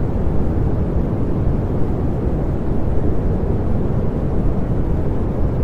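Synthetic pink noise: a steady, even hiss weighted toward the low end, unchanging throughout.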